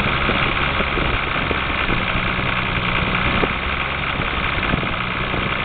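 Toyota 7M-GTE turbocharged inline-six idling steadily with a knock in it, which the owner takes for rod knock.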